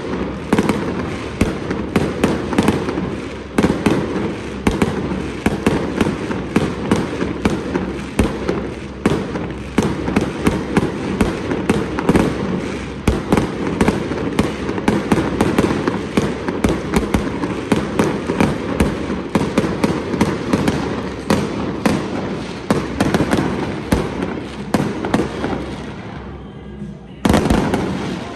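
Fireworks display: aerial shells bursting in a dense, continuous run of bangs and crackling stars. Near the end there is a brief lull, then one loud burst.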